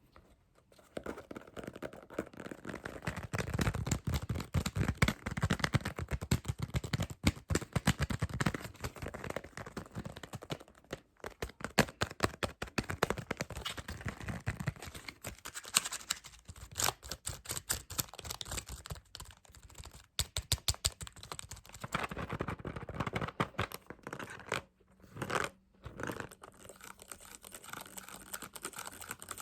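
Fast, dense tapping and scratching, many quick taps a second, with a few brief pauses.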